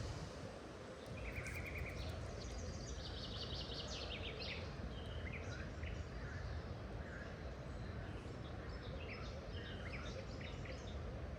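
Small birds chirping and trilling: a short trill about a second and a half in, then a run of quick high chirps and scattered calls. Under them is a steady low rumbling background noise.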